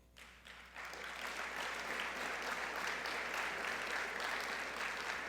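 Audience applauding, starting suddenly and swelling within the first second into steady clapping.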